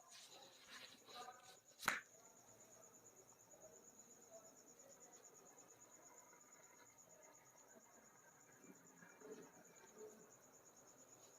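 Crickets chirping steadily in a high, even trill, with a single sharp snap about two seconds in and faint rustling around it.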